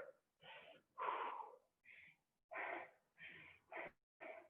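A person breathing hard from exertion during a weighted back-fly set: short, faint breaths in and out, about two a second.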